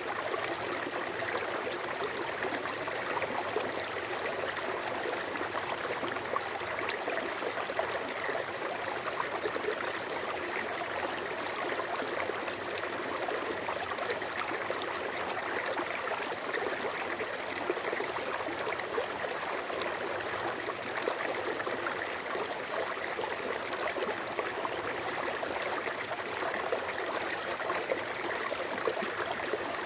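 A stream of water flowing and babbling steadily, without change.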